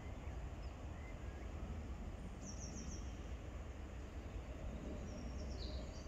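Lakeside outdoor ambience: a steady low rumble with small birds chirping faintly over it, a quick run of high chirps about two and a half seconds in and a few more near the end.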